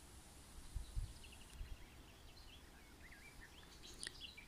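Faint songbird chirping and warbling in spring woodland: short repeated chirps, then looping up-and-down notes in the second half. There are a few low thumps about a second in.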